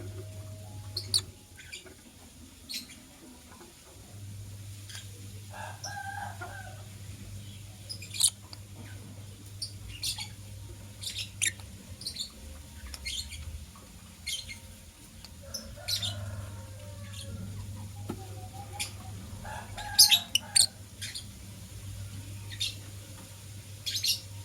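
Lovebirds giving short, sharp, high chirps at irregular intervals, a few much louder than the rest, with some scratchier mid-pitched calls in between. A low steady hum comes and goes.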